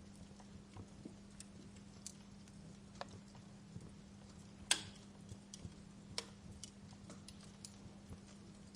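Wood fire crackling in a fireplace: scattered small snaps and ticks at an uneven pace, with one louder pop about halfway through, over a faint steady low hum.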